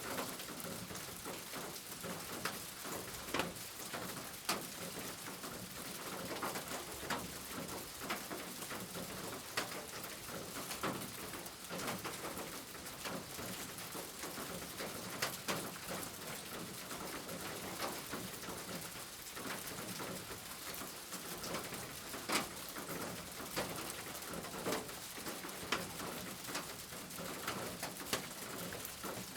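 Steady rain, with many individual drops tapping sharply and irregularly on a nearby surface.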